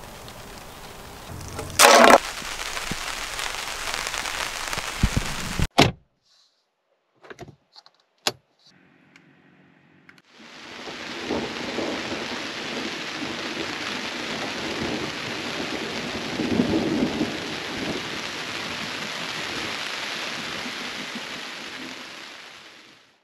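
Heavy rain falling steadily on the teardrop trailer's awning, starting about ten seconds in, with a low swell of thunder partway through. Before it there is a few seconds of outdoor noise with a short loud knock about two seconds in, then near silence broken by a few clicks.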